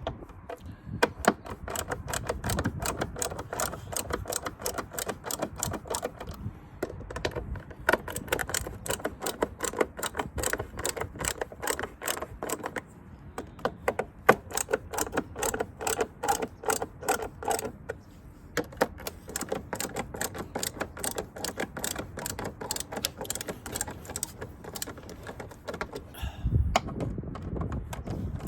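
Rapid, irregular mechanical clicking and rattling that continues with a few short pauses.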